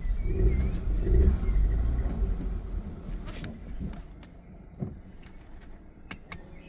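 A car running with a low rumble that fades away over the first few seconds, followed by a few scattered clicks.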